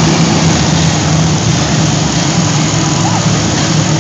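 Monster truck engine running steadily at a loud idle.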